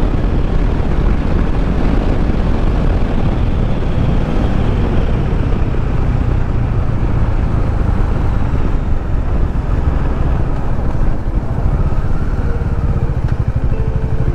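Motorcycle running steadily at riding speed: a low engine rumble under a constant rush of wind and road noise.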